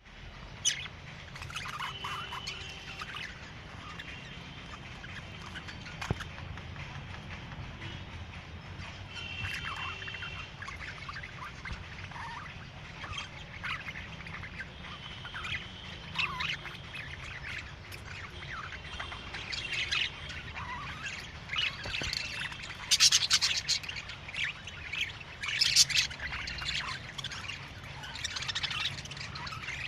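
A pair of budgerigars chirping and chattering in short warbled calls, with louder, denser calling about three quarters of the way through and again near the end.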